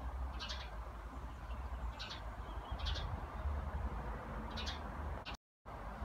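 A small bird chirping: about four short, high chirps a second or so apart, over a steady low rumble of wind on the microphone. The sound drops out completely for a moment near the end.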